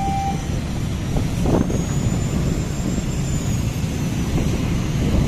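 A level-crossing alarm's two alternating tones stop just after the start. A steady rumble of a passenger train moving away along the track follows, with a faint high whine rising and falling in the middle.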